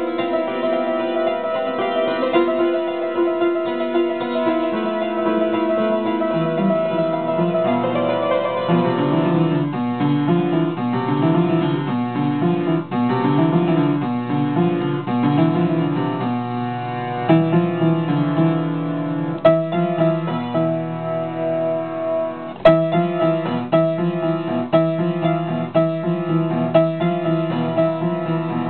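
Solo piano playing a composed and improvised piece: sustained notes at first, a bass line coming in about six seconds in, then quicker repeated figures, and from about two-thirds of the way in, sharply struck chords with a loud accent.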